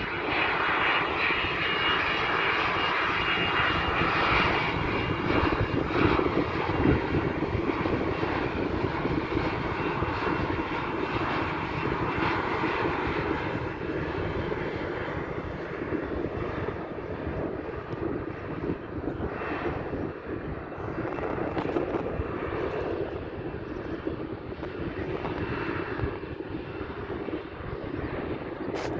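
Landing airplane's engines running: a steady rushing noise with a faint high whine in the first few seconds, growing slowly fainter.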